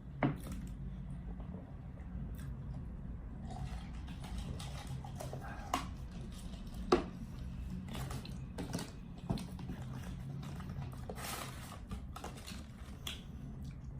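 Eating and food-handling sounds: scattered clicks and knocks, the sharpest about seven seconds in, with a brief rustle near eleven seconds, over a steady low hum.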